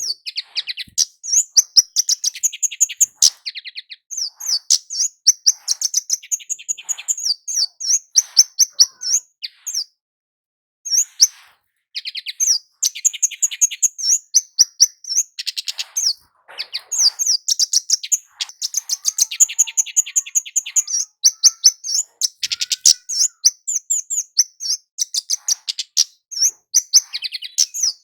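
Kemade (Javan flowerpecker) singing: rapid runs of thin, high chirps and trills, repeated almost without break, with a short pause near the middle.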